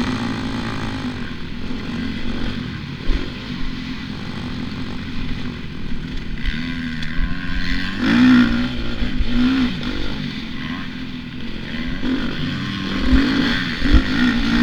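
Dirt bike engine running on a motocross track, its pitch rising and falling with the throttle. It revs up sharply about halfway through and again near the end.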